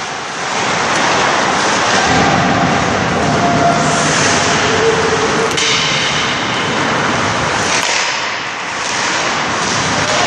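Ice hockey rink din: a steady wash of skating and play noise with faint distant voices, broken by a sharp crack a little past halfway and another near the end.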